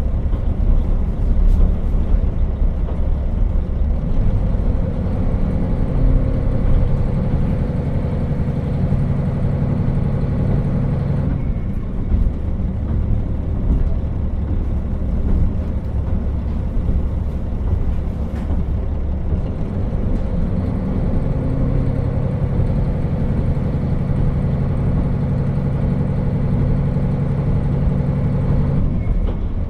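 KiHa 40 diesel railcar under way, its diesel engine running with a steady low rumble from wheels and track. The engine tone rises about four seconds in, falls off around eleven seconds, then comes back around twenty-one seconds and drops again near the end, as power is applied and eased.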